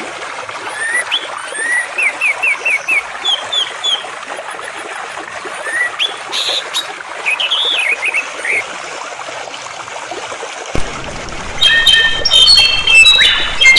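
Songbirds chirping in quick series of short notes over a steady trickle of flowing water. About eleven seconds in, the recording switches abruptly to a louder bird singing clear whistled notes.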